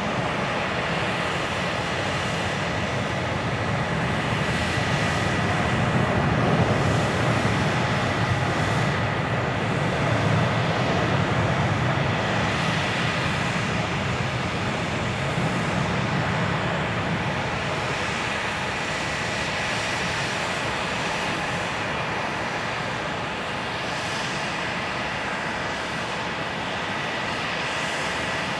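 Boeing 787-8 airliner's twin Rolls-Royce Trent 1000 turbofans at takeoff thrust: a deep rumble and rush of jet noise that swells to its loudest several seconds in and slowly eases as the aircraft passes and climbs away, with a thin steady whine above it.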